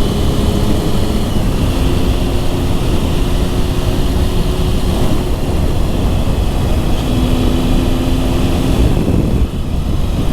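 Motorcycle engine running under way with heavy wind and road rush, its note holding steady and shifting pitch a few times. The loudness dips briefly near the end.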